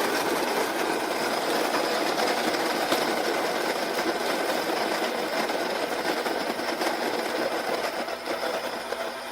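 Baratza Encore conical burr coffee grinder running, its motor whirring steadily as it grinds whole beans at a coarse French-press setting, easing off slightly near the end. Not too terribly loud.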